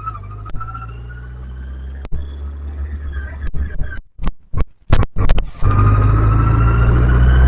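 Motorbike engine running under way, its note slowly rising toward the end as the bike speeds up. About four seconds in, the sound cuts in and out several times with sharp clicks before coming back louder.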